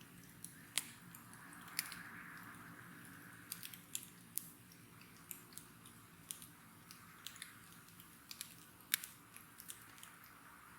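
Wood fire crackling, with irregular sharp pops (the loudest about a second in and near the end) over a soft hiss of burning that swells and fades twice.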